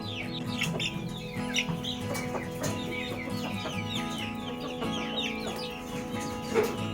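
Chickens calling: many short, high calls falling in pitch, several a second, over background music with held notes. A single sharp knock sounds near the end.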